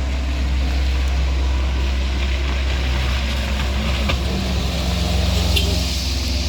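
Motor vehicle engine running steadily, with a deep constant rumble underneath.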